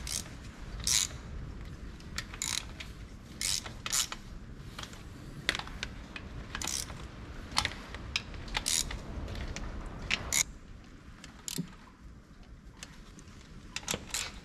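Hand tools on engine parts: a socket ratchet and metal pieces clicking and clinking irregularly as bolts are tightened, with a quieter stretch about two-thirds of the way through.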